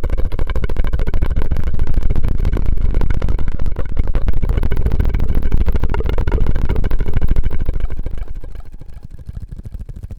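Close-miked ASMR mouth and straw sounds: a dense run of rapid crackles and clicks over a low rumble, dropping off about eight seconds in.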